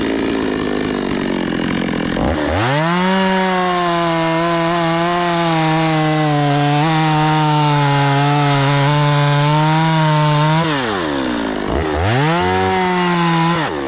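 Stihl chainsaw bucking firewood. It revs up about two seconds in and holds full throttle for roughly eight seconds, drops back, then makes a second, shorter full-throttle burst before falling back near the end.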